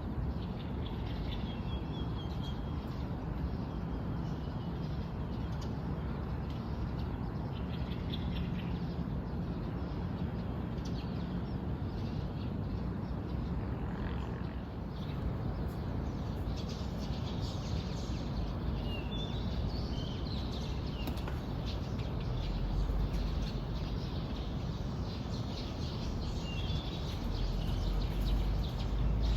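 Wild birds chirping and calling in short, scattered phrases, over a steady low rumble that grows louder near the end.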